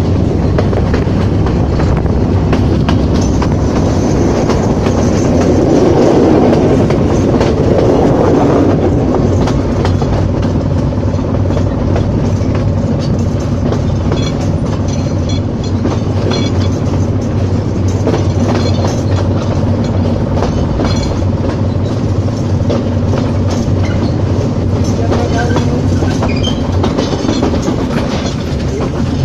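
Passenger train running, heard from an open carriage window: a steady rumble with wheels clattering over the rail joints, swelling a little about six seconds in.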